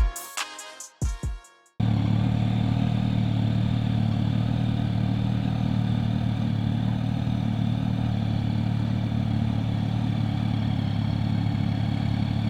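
Music with deep, booming bass-drum hits that cuts off abruptly about two seconds in. After it, a Yamaha R9 motorcycle's inline three-cylinder engine idles steadily and evenly.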